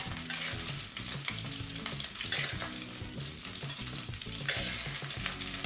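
Beaten egg frying in hot oil in a carbon-steel wok, sizzling steadily while a metal wok spatula scrapes and pushes it to scoop it out. There is one brief, louder spatula stroke about four and a half seconds in.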